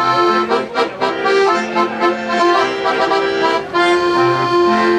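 Accordion playing a traditional folk-song tune without singing, in sustained notes and chords.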